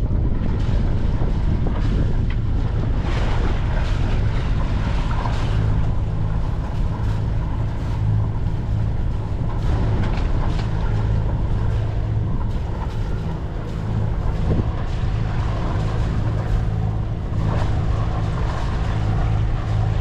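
A sailing yacht's inboard engine running at a steady drone under way, with wind rushing over the microphone.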